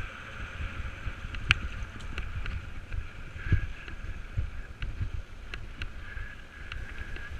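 Wind rumbling on the microphone with scattered knocks and rattles, as of a bicycle jolting along a rough dirt trail, over a steady high-pitched hum. The sharpest knocks come about one and a half and three and a half seconds in.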